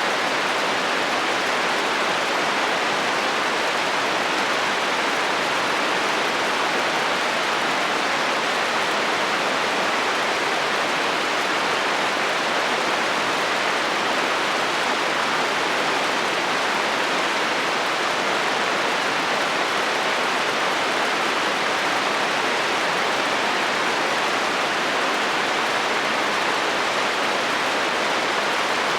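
Heavy rain falling steadily on a metal roof: a dense, even hiss with no thunder or breaks.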